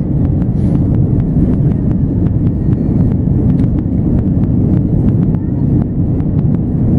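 Steady low rumble of an Airbus A330-200 landing, heard inside the cabin, with frequent sharp ticks and rattles scattered through it.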